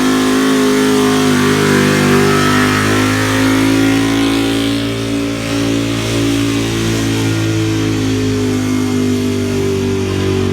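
Truck engine held at high revs under load in a truck pull, its pitch steady after climbing just before.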